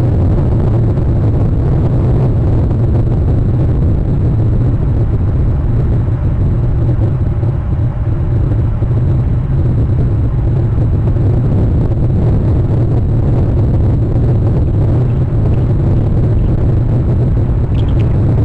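A steady, loud low rumble with a hiss above it, even and unbroken throughout. Near the end come a couple of faint, brief high-pitched notes.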